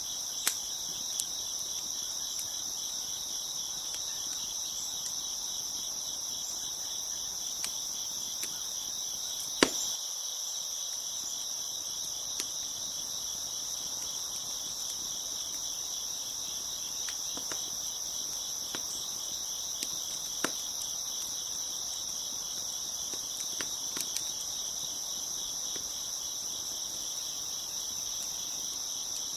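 A dense chorus of crickets chirping steadily, with sparse sharp pops and crackles from a wood fire. The loudest pop comes about ten seconds in.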